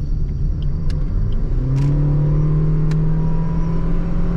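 Suzuki Swift's 1.2-litre petrol engine and exhaust heard from inside the cabin while driving. The engine note rises under acceleration about a second and a half in, then holds steady over the road rumble.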